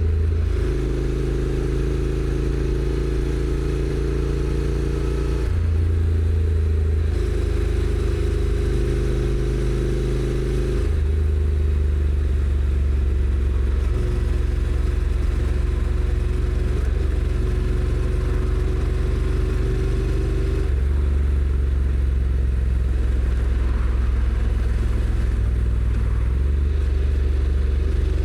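Honda NC750X's 745 cc parallel-twin engine running through its stock exhaust while riding. The engine note holds steady and then jumps abruptly to a new pitch several times, as the dual-clutch transmission changes gear.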